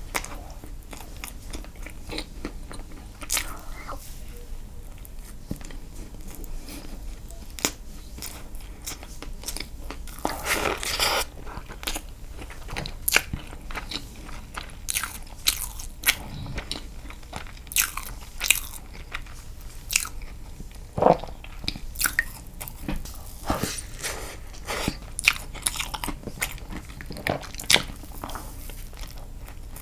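Close-miked eating sounds of a person chewing castella sponge cake dipped in milk: irregular mouth clicks and smacks, with no talking.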